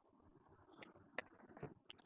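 Near silence with a few faint, sharp clicks and taps in the second second.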